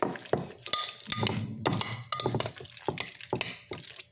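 A utensil stirring egg salad in a bowl, clinking and knocking against the bowl in irregular strokes, some with a brief ring.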